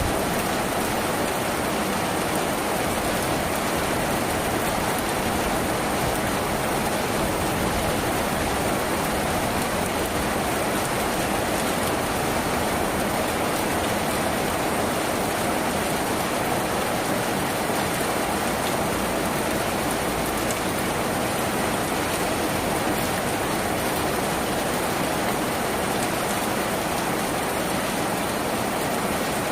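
Steady rain on a tin roof: an even hiss with scattered faint drop ticks.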